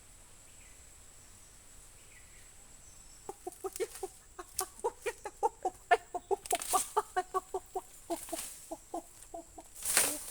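Ducks quacking in a rapid run of short calls, about four or five a second, starting about three seconds in and lasting several seconds. A few short scuffling noises are mixed in, the loudest near the end.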